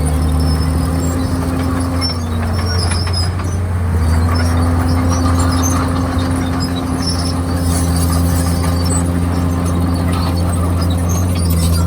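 Komatsu D51PX bulldozer's diesel engine running steadily under load; its pitch sags briefly about two seconds in and picks back up a second or two later.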